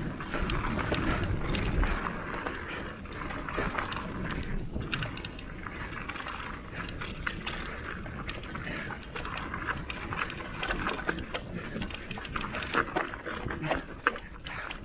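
Mountain bike riding down a dirt trail: tyres on dirt and gravel, with continual clicks and rattles from the chain and frame over the rough ground.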